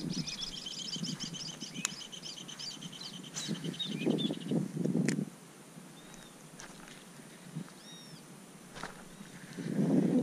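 Wild birds calling: a fast high trill over the first four seconds or so, then two short high notes that rise and fall, about two seconds apart. Low rustling thuds of footsteps in grass come around four seconds in and again near the end, louder than the birds.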